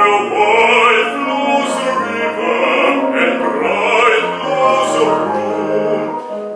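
A classical bass voice singing with vibrato in operatic style over instrumental accompaniment.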